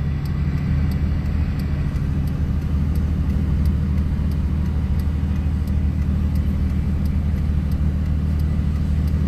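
Vehicle engine and road noise heard from inside the cab while driving on the road, a steady low drone, with faint ticking at regular intervals.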